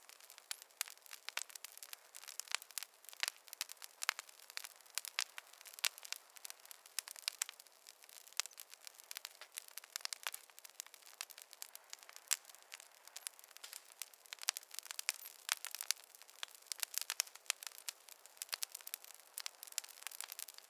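Campfire of burning wood crackling, with a continuous, irregular run of sharp pops and snaps.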